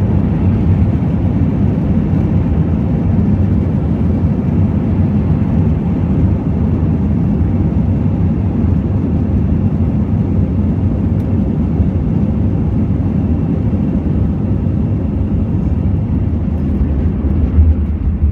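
Steady low rumble of Airbus A321 engine and airframe noise heard inside the passenger cabin, getting a little louder near the end.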